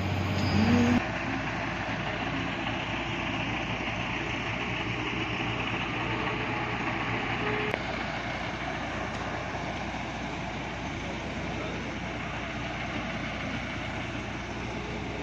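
Steady road and engine noise inside a moving bus, an even rumble and hiss with a low hum underneath.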